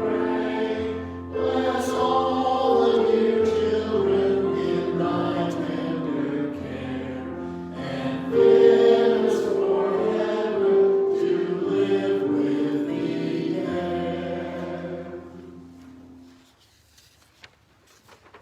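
Church choir singing in sustained chords; the music fades and ends about sixteen seconds in.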